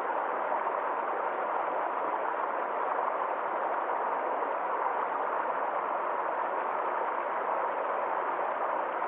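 A small forest stream flowing steadily over rocks: an even, unbroken rush of water.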